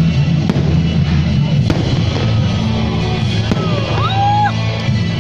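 Fireworks bursting with several sharp bangs over loud music played through loudspeakers.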